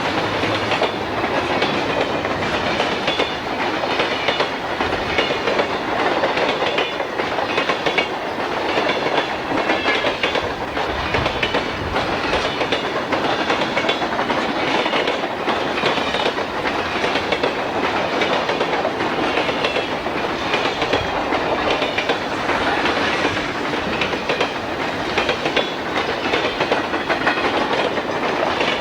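Freight train cars rolling past at speed, steel wheels clicking rhythmically over rail joints amid a steady rumble of wheel and rail noise.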